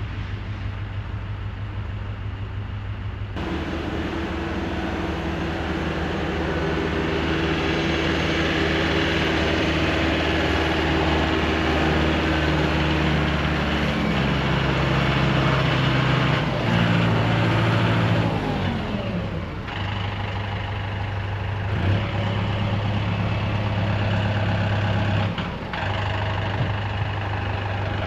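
Tractor engine running, speeding up and shifting in pitch for a while, then dropping back to a steady idle about two-thirds of the way through.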